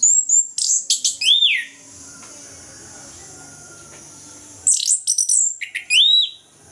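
Orange-headed thrush singing: two bursts of quick, high whistled notes about four seconds apart, each ending in a falling note, over a steady high hiss.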